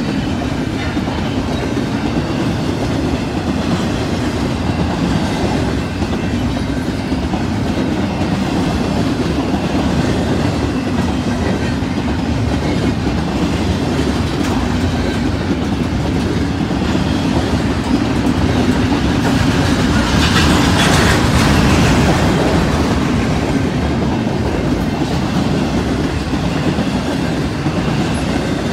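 Double-stack intermodal freight cars of a BNSF train rolling steadily past close by: a continuous rumble of wheels on rail. The sound grows louder and brighter for a few seconds about twenty seconds in.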